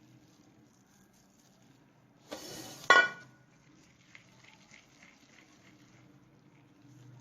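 A brief scrape and then a single sharp, ringing clink of kitchenware about three seconds in, as when a dish or utensil is knocked against another.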